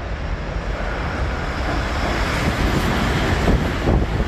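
Keikyu New 1000 series electric train running through the station at speed: wheel-on-rail rumble and a rush of air that grow louder as the cars sweep past. The passing air buffets the microphone.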